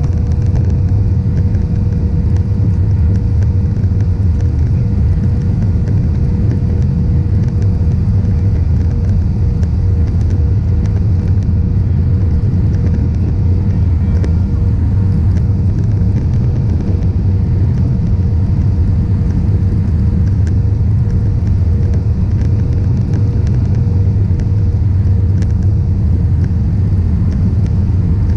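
Airbus A320-200 airliner in flight, a steady loud rumble of engines and rushing air with a thin steady hum running through it.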